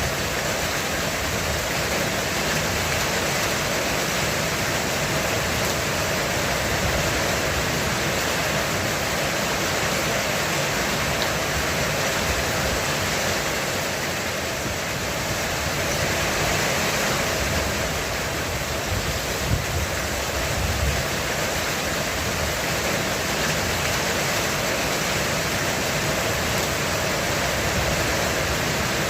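Heavy rain falling steadily on a roof, an even, unbroken rush of noise.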